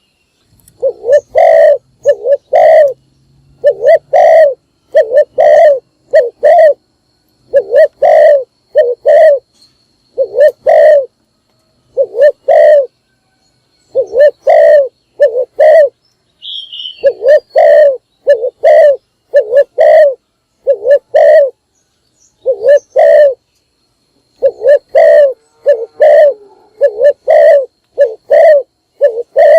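Spotted dove cooing over and over, in phrases of two or three low coos separated by short pauses. A brief higher chirp sounds about halfway through.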